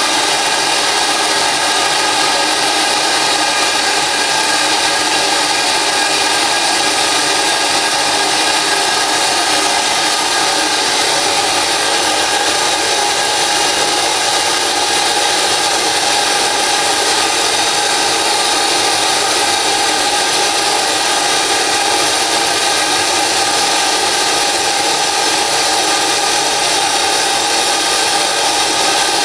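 Compressed-air operated vacuum cleaner running: a loud, steady rush of air hissing through it as the round brush on its hose sucks up spilled flux powder.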